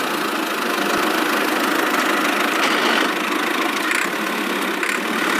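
A motor running steadily: a constant mechanical hum that holds the same pitch throughout.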